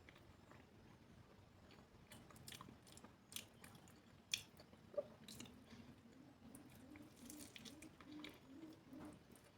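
Close-miked chewing and crunching of food, faint and wet, with a few sharper crunches about three and a half to five seconds in. A faint low wavering hum runs through the second half.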